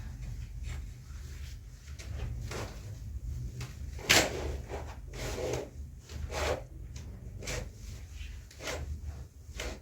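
A series of irregular light knocks and scrapes from household objects being handled, the sharpest knock about four seconds in, over a low steady hum.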